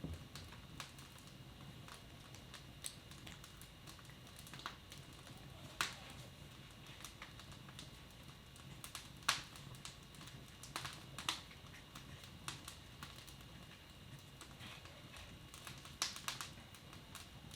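Wood fire in a fireplace crackling: irregular sharp pops and snaps, a few louder than the rest, over a faint steady hum.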